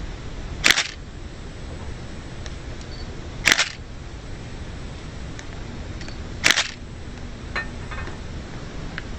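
Three sharp, loud crunches of someone biting into crunchy food, about three seconds apart, with a few faint clicks after the last one over a steady low background noise.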